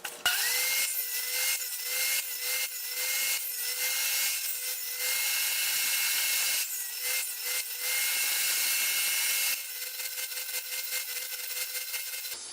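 Table saw switched on and spinning up, then its blade cutting scrap plywood as the board is turned on a pivot pin to cut a circle; the motor's whine dips slightly each time the blade bites harder. About three-quarters of the way through the cutting noise stops while the saw keeps running, and the sound cuts off abruptly just before the end.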